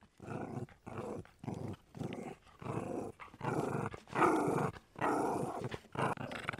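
A dog barking and growling in a string of short barks, roughly two a second.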